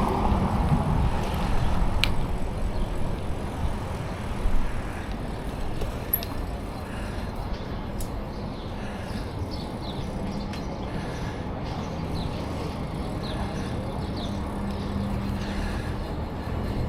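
Bicycle riding along a paved path: steady rolling and wind noise on the camera's microphone, louder for the first few seconds and then easing off, with short high chirps repeating through the second half.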